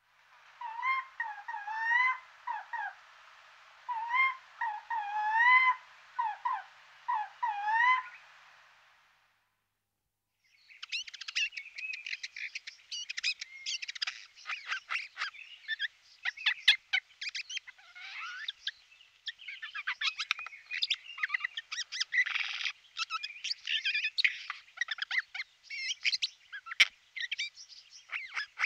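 Birds calling: phrases of clear, wavering whistled notes, then after a short break about nine seconds in, a fast, dense chatter of short notes.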